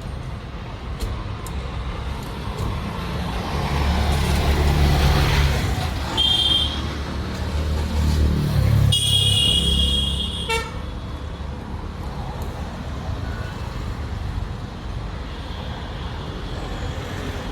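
Road traffic: a motor vehicle passes with a low engine rumble that swells and fades in the middle. A vehicle horn gives a short honk, then a longer honk a few seconds later.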